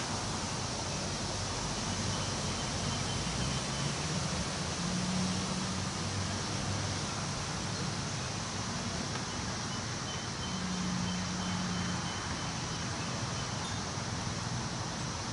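Wind rustling through tree leaves as a steady, even hiss, with a faint low hum underneath that swells a little now and then.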